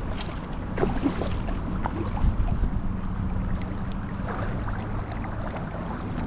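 Water splashing and dripping around a kayak as it is paddled, with small irregular splashes over a steady low rumble of wind on the microphone.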